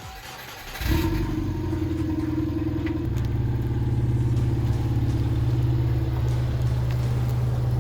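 A motor starting up about a second in and then running with a steady low hum.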